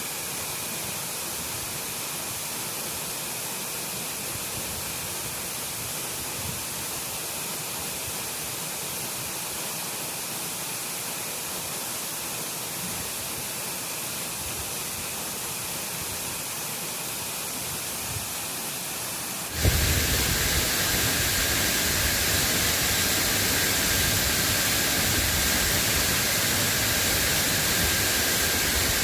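Steady hiss of falling rain with no separate drops standing out, jumping suddenly louder about two-thirds of the way through.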